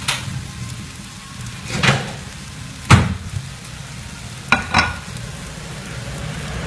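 Shredded sweet-potato fritters sizzling in shallow oil in a frying pan on low heat as they brown, with a few sharp pops and clicks scattered through, the loudest about three seconds in.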